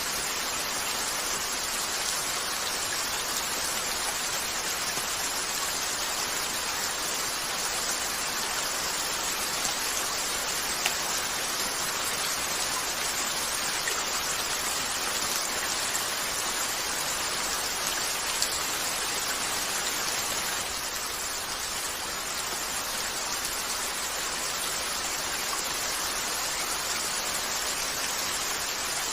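Steady rain falling on a window, an even hiss of drops, with a few faint sharp pops from a crackling fireplace.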